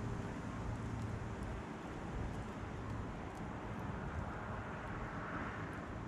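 Campfire burning: a steady low rushing with a few faint crackling pops.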